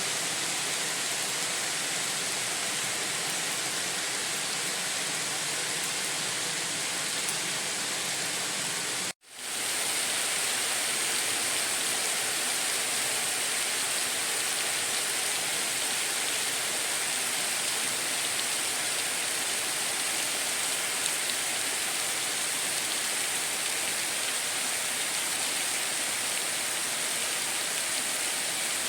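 Steady heavy rain, an even hiss of falling water. About nine seconds in it cuts out for a split second and resumes, the join of a looped recording.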